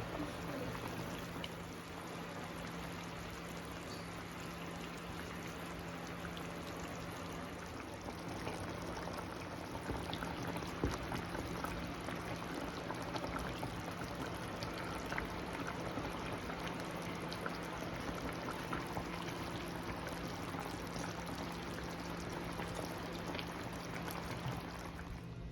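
Country chicken cooking in a pot, a steady sizzle with scattered small pops, over a steady low hum.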